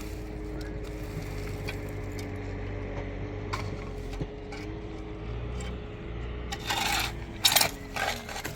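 A tractor engine running steadily at low revs, with three short clattering scrapes near the end.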